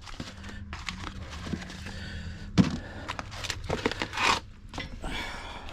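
Handling noises as a part is picked up and worked by hand: rustling and scraping, with a single sharp knock about two and a half seconds in and a low steady hum underneath early on.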